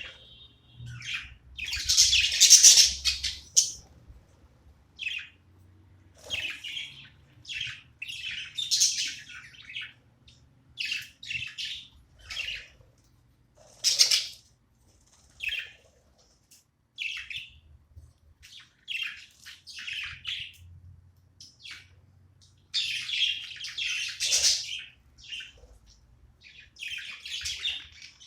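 Pet budgerigars chirping and chattering in short bouts, the busiest chatter about two seconds in and again near the end.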